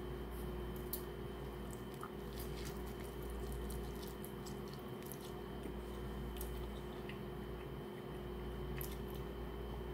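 A person biting into and chewing a slice of pizza: faint, scattered mouth clicks over a steady low hum.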